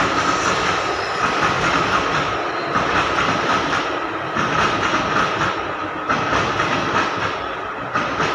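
Passenger train coaches rolling past, wheels clattering over rail joints in short irregular knocks over a steady rumble and a steady high ring from the wheels on the rails.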